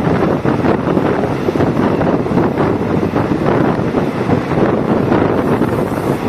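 Diesel multiple unit train running: a loud, steady rumble and rattle of the moving railcar, with wind buffeting the microphone.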